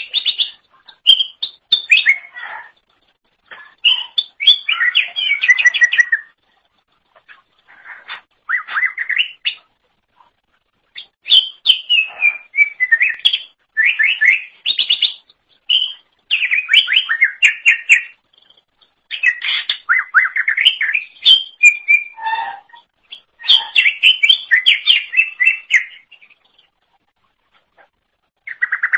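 Green leafbird (cucak ijo) singing in bouts of rapid, varied chirps and whistles that slide up and down in pitch, separated by short pauses, with a longer pause near the end.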